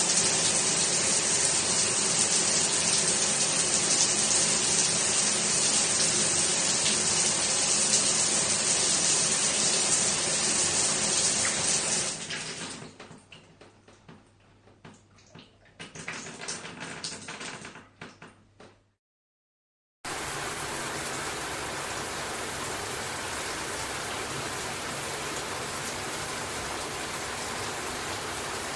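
Shower water spraying steadily and hard, then dying away about twelve seconds in to a few uneven splashes and drips. After a short silence, another shower starts spraying steadily, a little quieter.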